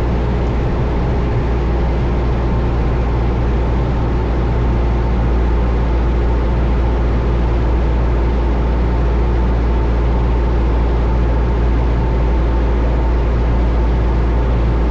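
Steady drone of a 1972 Cessna Skyhawk's four-cylinder Lycoming engine and propeller in flight, with a strong low hum under it.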